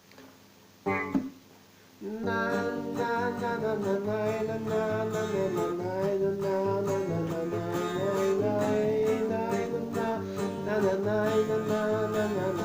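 Guitar strummed, playing the introduction to a simple three-chord song. It starts about two seconds in, after a single short sound about a second in.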